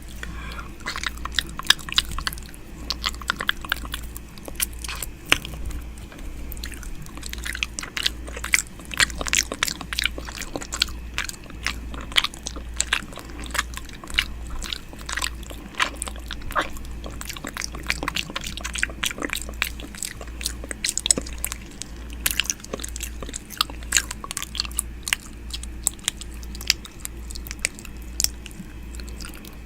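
ASMR 'ear eating' mouth sounds made right at the microphone: a dense, continuous run of sharp wet clicks and smacks, over a steady low hum.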